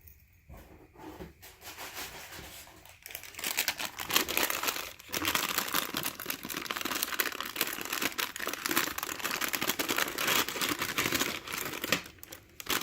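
Packaging being handled and unwrapped by hand: soft rustling at first, then about three seconds in a long stretch of dense crinkling and crackling, broken briefly once.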